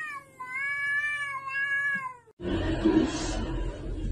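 White long-haired cat meowing: a short call, then one long drawn-out meow of about two seconds that drops in pitch as it ends. It cuts off suddenly and gives way to a noisy stretch of rustling.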